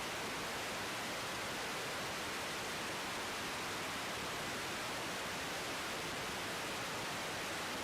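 Steady, even hiss of radio static from an air traffic control radio feed between transmissions.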